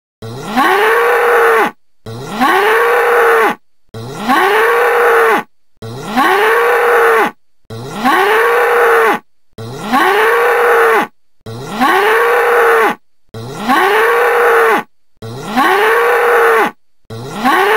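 Bull bellowing: the same long call repeated about ten times at even intervals, each one rising in pitch and then holding steady before breaking off.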